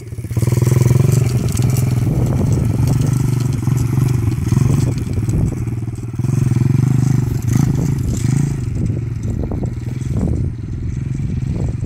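Dirt bike engine running at low, fairly steady revs, the throttle opened a little about a second in and again near the middle.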